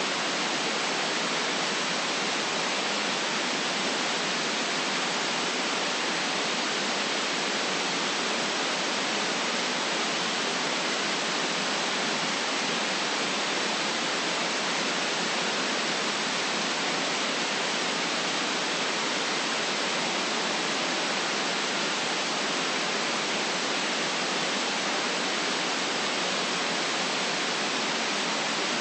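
Steady synthetic white noise: an even, unchanging hiss with little bass, made for sleep or masking background sound.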